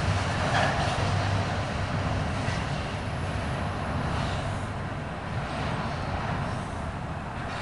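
Loaded autorack freight cars rolling past, steel wheels on the rails, as a steady rumble with a low hum that slowly fades toward the end of the train.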